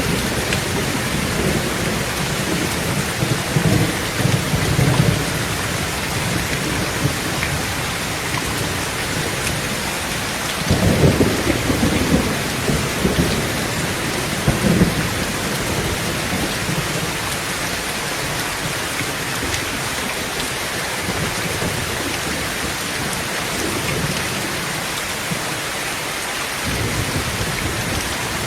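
Heavy rain falling steadily on a tin roof, with rolling thunder: rumbles a few seconds in, a stronger peal about eleven seconds in that rolls on for several seconds, and another low rumble near the end.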